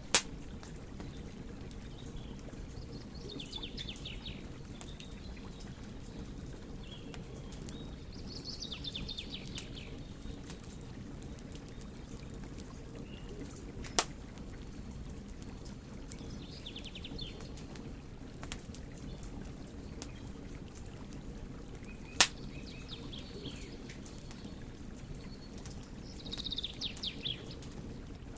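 Burning wood fire: a steady low rumble of flames with small crackles, and three sharp pops right at the start, about halfway through, and about three-quarters of the way in. Short high chirping trills come and go several times over it.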